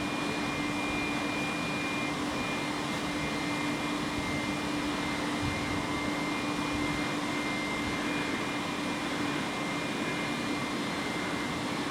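Steady electric train noise: an even rushing hum with a constant low tone and a high two-note whine, holding level throughout.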